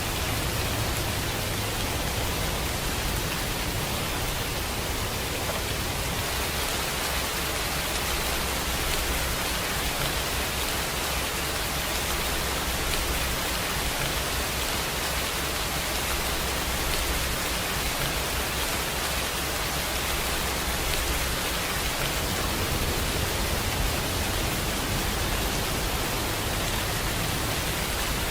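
Steady, even rain: a constant hiss of rainfall with a low rumble beneath it.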